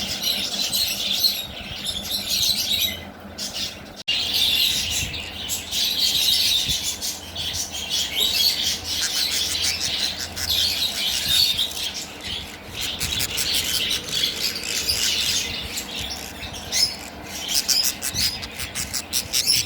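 Lovebirds chirping, a dense run of high-pitched overlapping chirps and squawks that keeps going, with a short lull about three to four seconds in.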